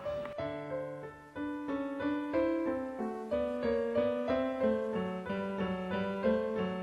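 Background music: a piano melody of single notes played at an even pace.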